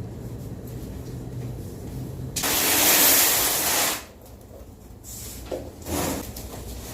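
A low engine hum, then a loud spraying hiss lasting about a second and a half, followed by a couple of short bumps near the end.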